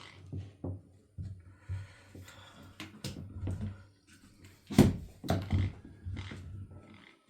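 Wooden boards and a clamp being handled and set down on a workbench: scattered knocks and rattles, with one loud thunk about five seconds in.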